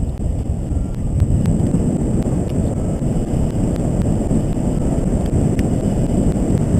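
Steady low rumble of airflow buffeting the microphone of a paraglider pilot in flight.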